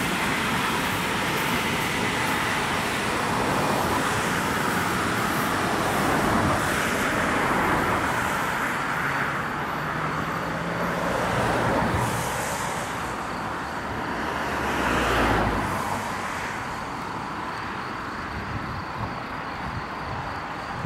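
Steady rush of passing traffic: a Deutsche Bahn ICE high-speed train running away along the line, mixed with cars on the neighbouring road. There is a brief swell about two-thirds of the way through, then the noise eases off.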